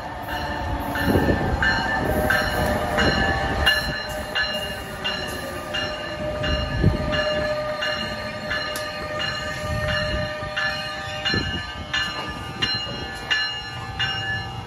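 New Jersey Transit electric commuter train pulling into the station, a bell ringing steadily about twice a second. A long steady squeal, typical of wheels or brakes as the train slows, drifts slightly lower in pitch and stops about eleven seconds in.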